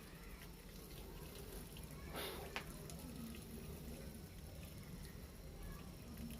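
Top-load automatic washing machine in its wash cycle: faint water sounds from the drum, with one brief louder swish about two seconds in.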